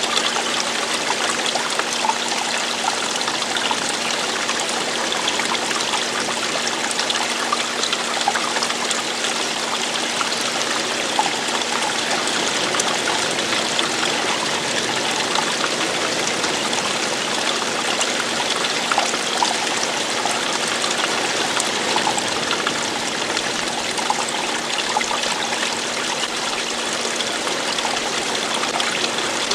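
Running water falling and splashing steadily, with fine trickling and splashing detail and no breaks.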